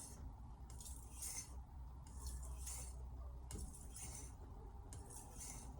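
Carbon-steel kitchen knife drawn in repeated strokes across a sharpening surface, a light scrape about once a second.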